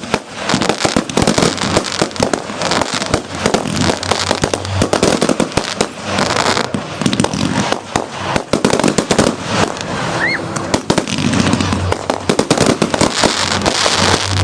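Fireworks display: a dense, continuous barrage of bangs and crackling, with a short rising whistle from a rocket about ten seconds in.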